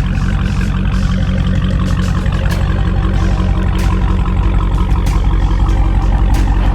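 Dodge Hellcat's supercharged 6.2-litre HEMI V8 idling steadily through an exhaust with the mid mufflers deleted, a loud, deep rumble.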